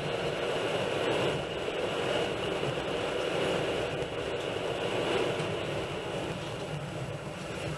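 Passenger train running along the track: steady wheel-and-rail noise heard from inside the carriage.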